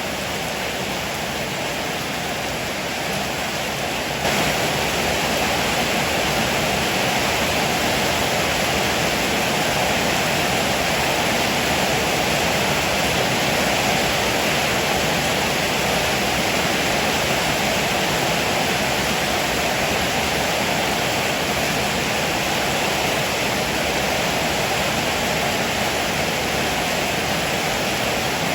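Heavy rain pouring steadily, a dense, even hiss; it gets louder about four seconds in and stays so.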